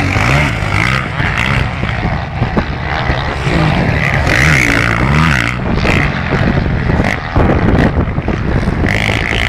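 Motocross motorcycles racing, their engines revving up and falling back again and again as the riders work the throttle.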